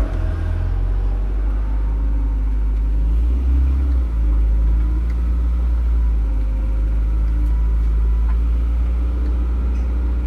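A 1991 Honda Accord's four-cylinder engine running at low speed while the car is backed out and manoeuvred, heard from inside the cabin as a steady low rumble.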